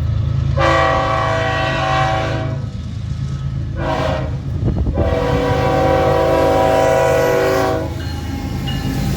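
Diesel freight locomotive's air horn sounding three blasts, a long one, a short one about four seconds in, then a longer one, over the steady low rumble of the locomotives' diesel engines.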